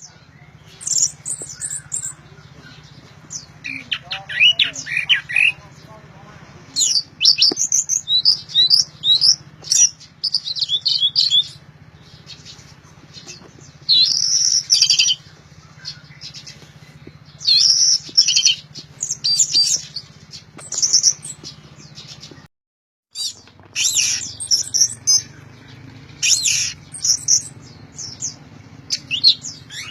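Orange-headed thrush singing loudly in repeated bursts of quick, varied high whistles and chirps, with a steady low hum underneath and a brief dropout about 23 seconds in.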